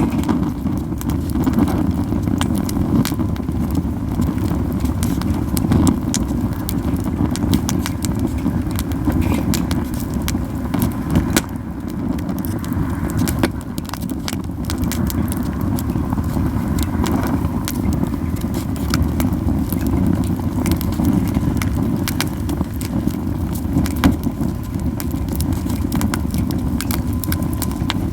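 Campfire of Japanese yew wood crackling, with frequent irregular sharp pops over a steady low rumble.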